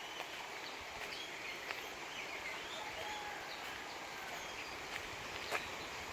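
Wild birds chirping and calling, short quick notes that sweep up and down in pitch, over a steady background hiss.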